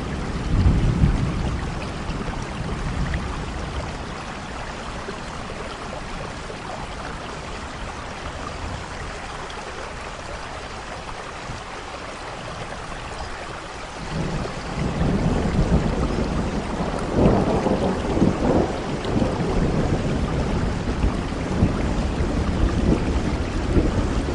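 Heavy rain falling steadily with thunder: a low rumble about a second in, then a louder rolling peal that starts suddenly about two-thirds of the way through and rumbles on to the end.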